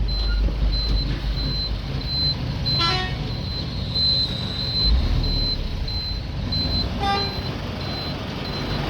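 Truck engine running steadily as it drives, with two short horn toots about 3 and 7 seconds in. A high beep repeats about every half second throughout.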